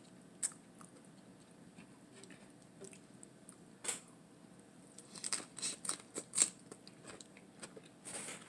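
Close-up chewing of a lettuce-wrapped hamburger: scattered short crisp crunches and bites, bunched together from about five to six and a half seconds in.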